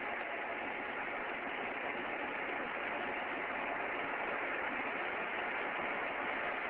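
Steady, even hiss of recording noise with no distinct sounds in it; the jets themselves are not heard.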